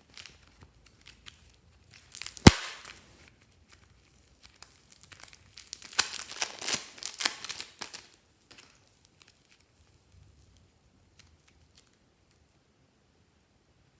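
Slime being squished and mixed by hand: a sharp snap about two and a half seconds in, then a few seconds of crackling and crinkling, with faint ticks afterwards.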